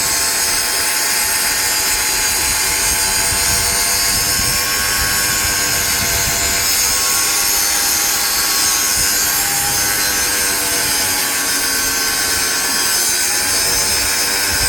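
A power tool running steadily under load, with a whining motor tone whose pitch wavers slightly near the end.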